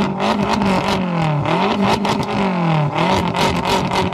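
BMW F10 M5's twin-turbo V8 being free-revved while parked, the pitch climbing and falling about three times in quick succession, with sharp crackles among the revs.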